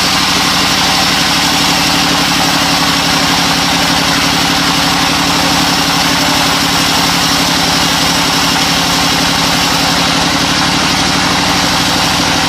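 Engine idling steadily, an even, unchanging run with a fast regular pulse.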